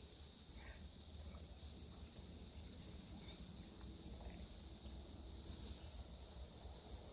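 Insects trilling steadily in a faint, high-pitched chorus, over a low rumble.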